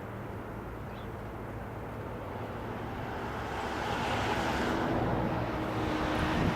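Airbus A380's four turbofan engines, a jet rush that grows steadily louder from about halfway through as the airliner approaches.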